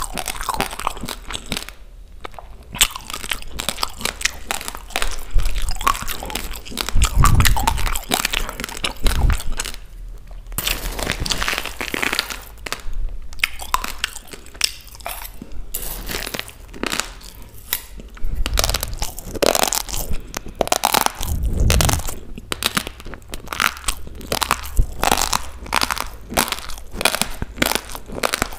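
Dry raw rice grains being bitten and chewed: a dense, irregular run of sharp crunches with brief pauses, and a few dull low thumps among them.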